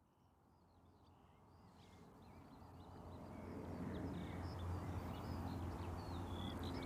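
Birds chirping and singing over a steady low rumble, fading in over the first few seconds.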